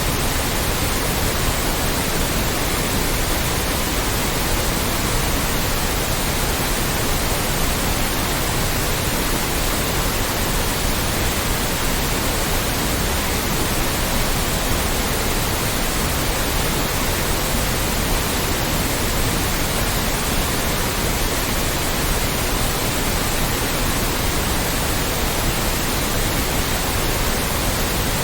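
Extra loud white noise: an even, steady hiss spread across the whole range, unchanging throughout.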